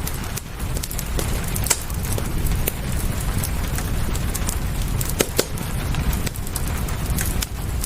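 Wood fire crackling with scattered sharp pops, over a steady hiss of rain and a low rumble.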